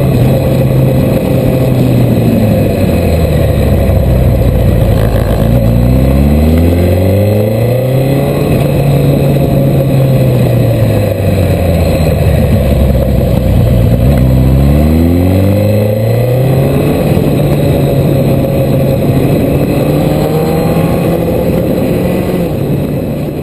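Suzuki GSX1300R Hayabusa's inline-four engine riding on, its pitch climbing as it accelerates and dropping as it eases off or shifts, several times over, loud throughout.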